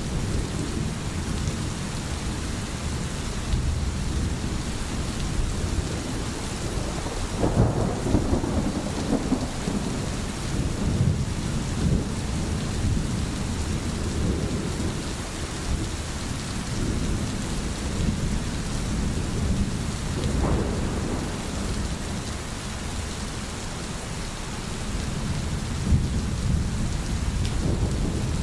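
Steady rain with a continuous low rumble of thunder beneath it, the rumble swelling about 8 seconds in and again around 20 seconds.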